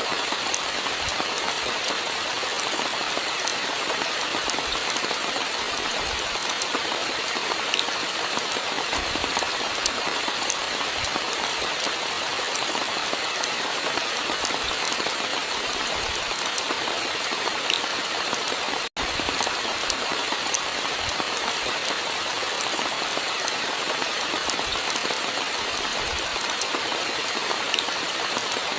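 Steady rain falling, an even hiss dotted with many small drop ticks. The sound cuts out for an instant about two-thirds of the way through.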